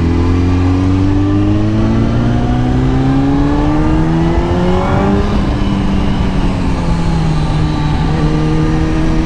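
Kawasaki ZX-10R's inline-four engine accelerating, its pitch rising for about five seconds. There is then a gear change that drops the revs, after which the engine holds steady revs, with wind noise underneath.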